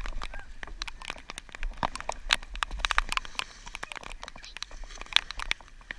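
Raindrops pattering close by, an irregular run of sharp little ticks and taps with a few louder ones.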